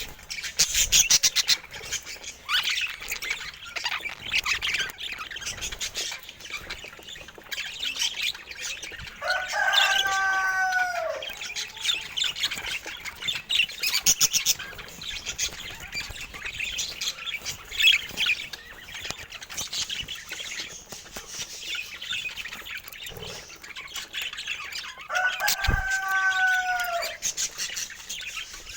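Budgerigars chirping and chattering continuously in quick, high twittering notes. Twice, about ten seconds in and again near the end, a longer, lower drawn-out call with an arching pitch stands out.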